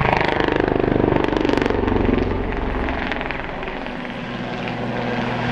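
Westland Lynx HAS3 helicopter flying a display, its main rotor beating in a fast even pulse over the whine of its turbines. The beat is loudest in the first two seconds, falls away around three to four seconds in, then builds again.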